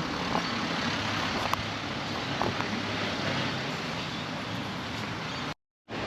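Steady street traffic noise in a shopping street. The sound cuts out completely for about a third of a second near the end.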